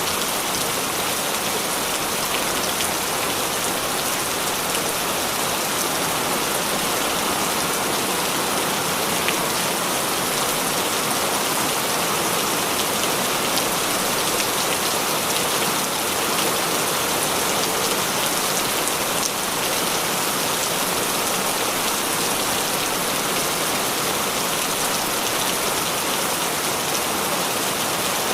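Heavy rain falling steadily in a dense, even hiss, with individual drops pattering on a surface.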